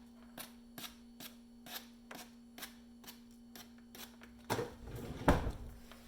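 Light regular ticking, roughly two to three ticks a second, over a steady low hum, then a few louder clatters and one sharp knock about five seconds in: handling sounds at a bench while soldering a circuit board.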